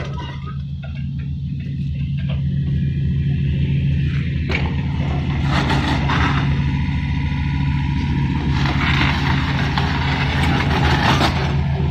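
Heavy diesel engine of an excavator running steadily under load, with stretches of louder noise over it about halfway through and again near the end.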